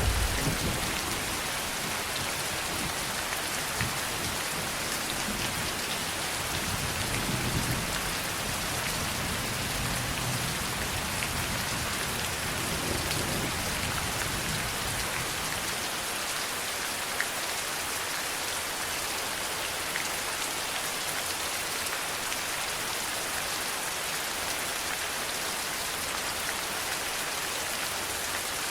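Steady rain falling hard, an even hiss, with the low rumble of thunder dying away over the first seconds and fainter rolls of thunder in the first half.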